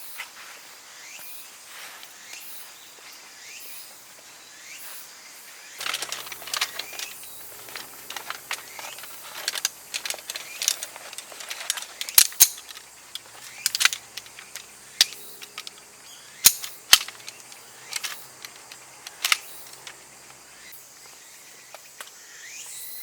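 Softwood campfire crackling, starting about six seconds in, with many irregular sharp pops, several of them loud.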